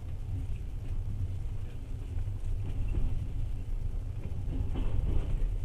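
Passenger train running on the rails, heard from inside the carriage: a steady low rumble of the wheels and carriage that grows a little louder toward the end.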